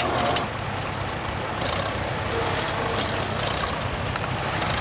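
Vintage tractor engine running steadily with a low, even drone.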